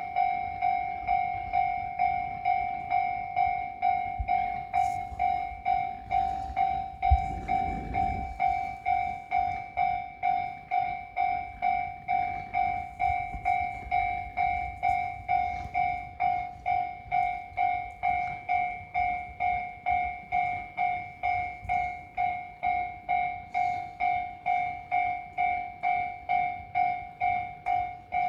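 Railway electronic warning bell ringing steadily, about two strokes a second, warning of an approaching train. A single knock and a brief low rumble come about seven seconds in.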